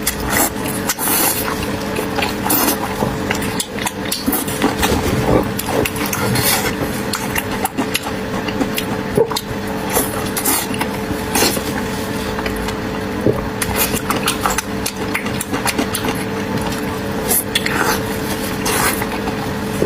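A person chewing food close to the microphone, with frequent short wet clicks and crunches, over a steady low hum.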